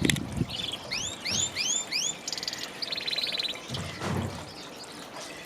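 Small aviary birds chirping: a quick run of arching chirps about a second in, then a buzzy rattling call, with a couple of low thuds.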